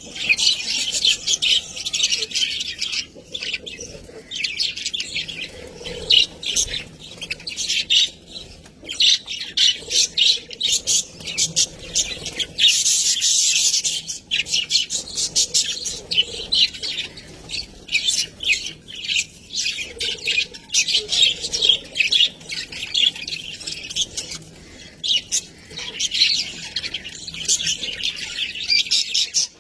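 Budgerigars chirping and chattering continuously, a dense stream of quick warbling notes with occasional squawks.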